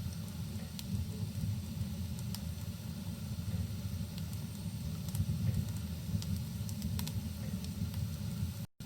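Wood fire crackling in a fireplace, scattered sharp pops over a steady low rumble. The sound drops out for an instant near the end.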